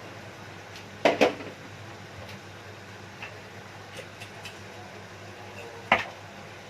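Cookware clanking as food is added to a pot: two quick knocks about a second in and another near the end, over a low steady hum.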